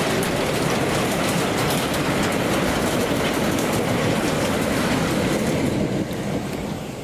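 A train passing close by: steady rumble of wagons and wheels clattering over the rail joints, fading away near the end as the train moves off.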